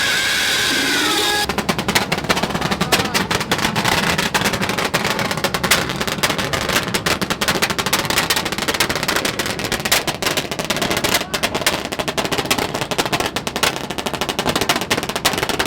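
Lifted truck's engine held at high revs through a loud exhaust, making a dense, rapid crackle of pops that starts abruptly about a second and a half in and keeps going. Before that, music plays briefly.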